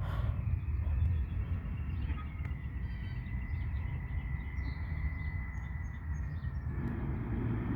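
Garbage truck's diesel engine rumbling low and steady, with a thin steady whine running through the middle few seconds and birds chirping.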